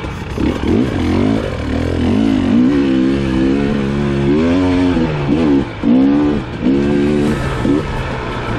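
KTM 300 XC-W TPI single-cylinder two-stroke dirt bike engine revving up and down as the throttle is worked on a steep climb. The pitch rises and falls over and over, with brief drops where the throttle is rolled off, a little over halfway through.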